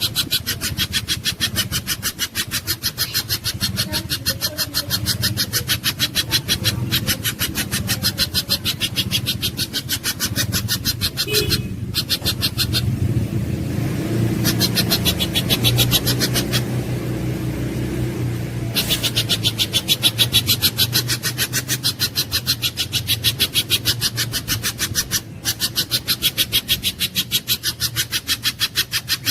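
Pijantung gunung (spiderhunter) calling: a fast, even string of sharp high notes, about eight a second, breaking off twice briefly, over a steady low hum.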